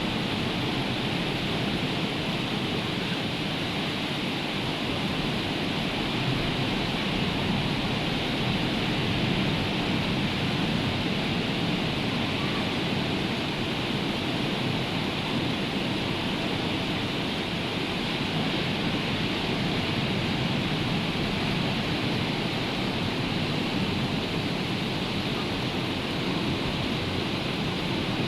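Rough sea surf and rain, a steady, unbroken wash of noise with no distinct events.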